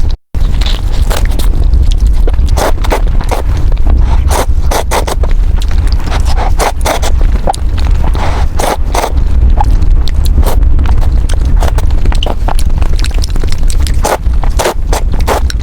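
Close-miked eating sounds: noodles and broth of a bowl of bún bò Huế slurped and chewed in quick, irregular wet smacks over a steady low rumble.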